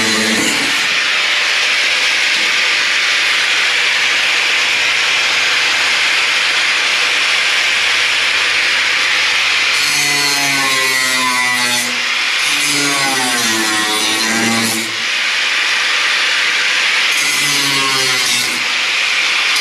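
Power saw cutting through a car body's sheet metal: a loud, steady harsh hiss, with a pitched drone that wavers up and down in stretches about halfway through and again near the end as the blade loads in the cut.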